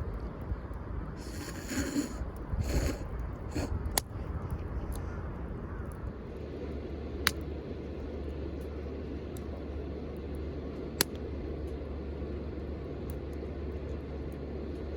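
Campfire burning with a few sharp, isolated pops, over a steady low rumble; two short rushing bursts come in the first few seconds.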